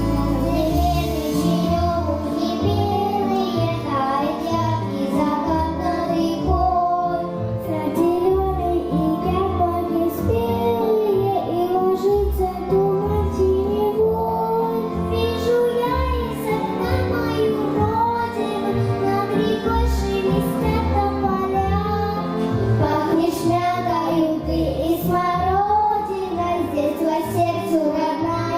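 Three young girls singing a song about the homeland together, in Russian, over instrumental accompaniment with a steady beat.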